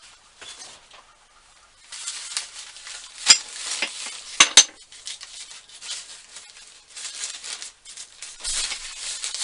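Rustling handling noise, with a sharp click a little over three seconds in and two quick clicks about a second later.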